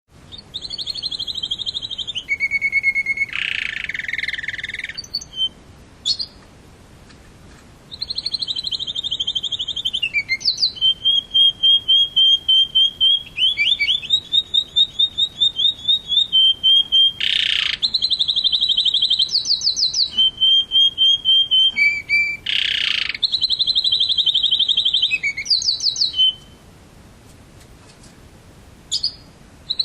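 Domestic canary singing: long phrases of rapid trills, each a quick run of the same high note, switching from one trill to another, with a pause about two seconds before the end. Three short harsh calls cut across the song, the longest about three seconds in.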